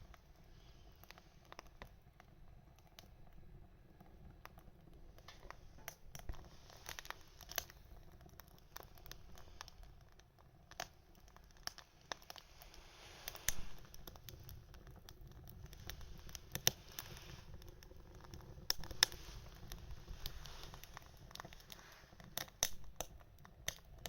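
Small wood fire crackling, with irregular sharp pops over a faint hiss.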